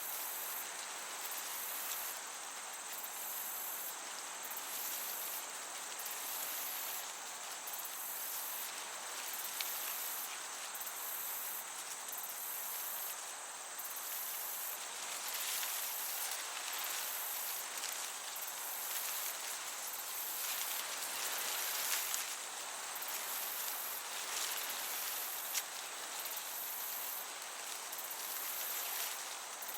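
Summer meadow ambience: crickets chirping in a steady high trill with regular pulses about once a second, over the even hiss of a gentle breeze that swells a little past the middle.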